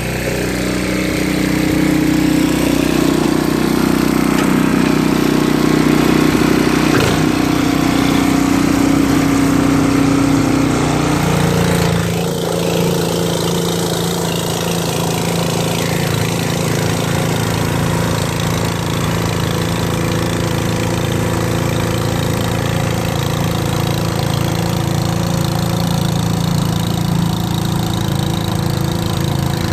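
Ariens snowblower's small gas engine running steadily. About eleven seconds in, its note changes and then holds steady again.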